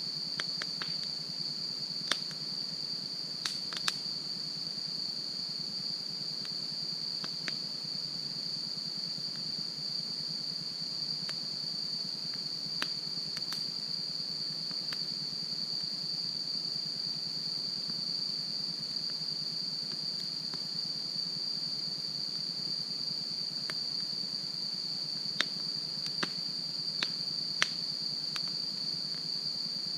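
A campfire crackling with occasional sharp pops, the loudest about two seconds in, around four seconds and again near the end. Behind it is a steady, high insect chorus.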